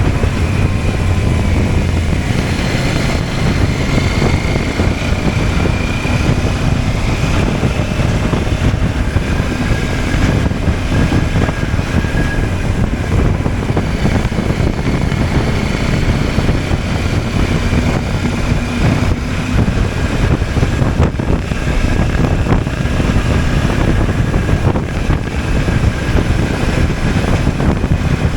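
CFMOTO 800MT's parallel-twin engine running steadily while the motorcycle is ridden, with a low rumble and wind rushing over the microphone.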